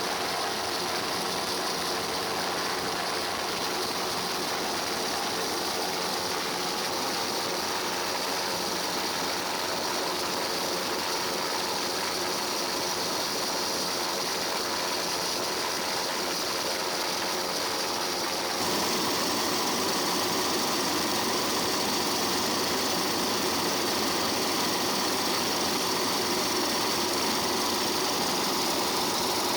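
Steady aircraft engine drone with a faint high whine, of the kind heard aboard a helicopter. About two-thirds of the way through it jumps abruptly to a slightly louder, brighter drone.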